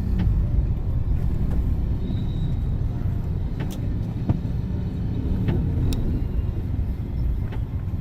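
Steady low engine and road rumble of a moving vehicle heard from inside, with a few light clicks.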